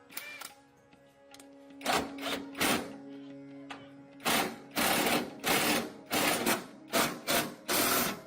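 Repeated short bursts of a workshop tool's noise, stopping and starting about every half second and coming faster in the second half, over quiet background music.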